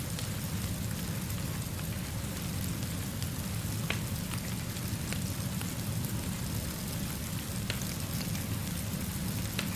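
Steady rainfall over a constant low rumble, with a few sharp crackles from a wood fire scattered through it.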